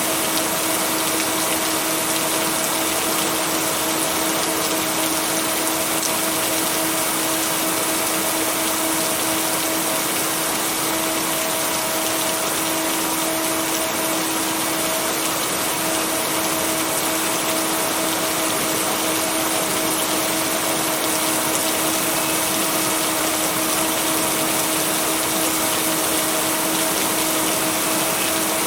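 Steady rain noise, even and unbroken, with no thunder. Two steady humming tones of the kind blended in as binaural beats lie underneath.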